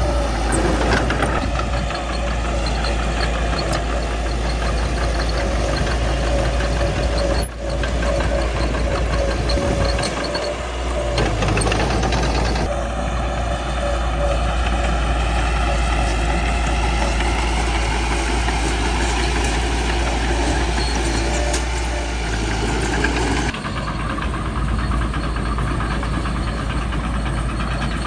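Caterpillar D3C bulldozer's diesel engine running steadily with a deep rumble and mechanical clatter. The sound shifts abruptly a few times.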